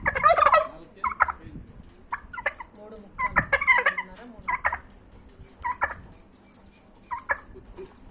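Bronze turkeys gobbling: a loud rapid warbling gobble right at the start and another about three seconds in, with shorter calls in between and later.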